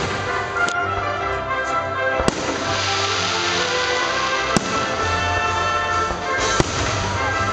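Aerial firework shells bursting with three sharp bangs spread about two seconds apart, over music with held notes that plays throughout.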